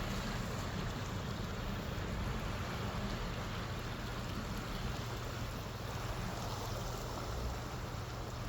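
Motorcycle riding along with its engine running steadily under a constant rushing wind noise.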